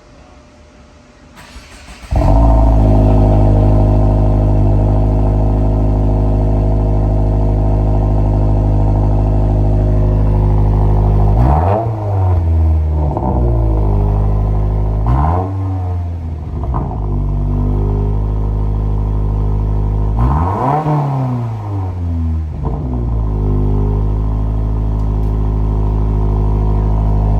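2022 Subaru WRX's turbocharged flat-four starting cold through a newly fitted Borla cat-back exhaust: it catches about two seconds in and settles into a steady fast idle. It is revved several times between roughly 11 and 23 seconds, each rev rising and falling back, then returns to idle.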